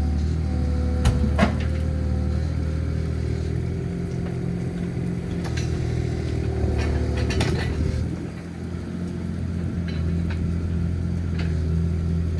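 Mini excavator engine running steadily, with scattered metal clanks and knocks. The engine note dips briefly about eight seconds in, then recovers.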